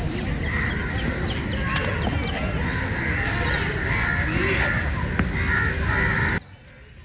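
Birds calling, over a loud steady low rumble. It all cuts off suddenly near the end, leaving fainter chirping.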